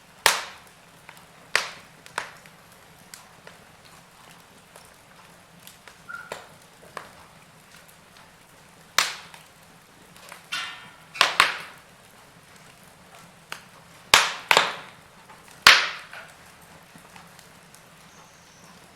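Wood fire crackling in a fireplace: sharp, irregular pops and snaps a second or few apart over a faint hiss, with a cluster of louder pops near the middle and toward the end.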